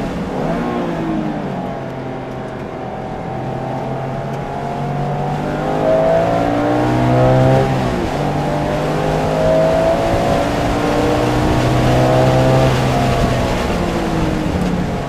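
Porsche engine running hard on a track lap, its revs climbing and falling several times. There is a sharp drop in pitch about eight seconds in, then another long climb that eases off near the end.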